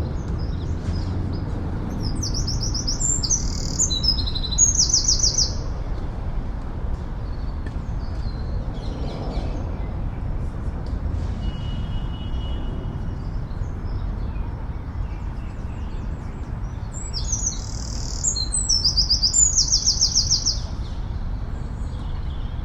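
A songbird sings two loud phrases with fast trills, the first about two seconds in and the second near the end, over a steady low rumble of distant city traffic.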